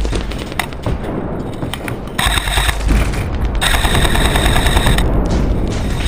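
Airsoft electric gun firing on full auto in two bursts: a short one a little past two seconds in, then a longer one of about a second and a half, each a fast, even buzzing rattle. Scattered sharp clicks come before the bursts.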